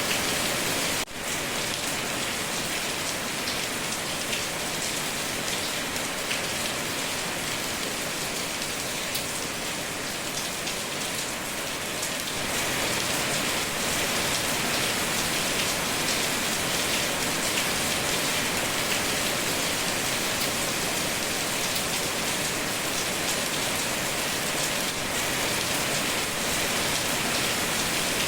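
Steady rain falling on a surface, a dense even hiss. It dips out for an instant about a second in and grows a little louder about twelve seconds in.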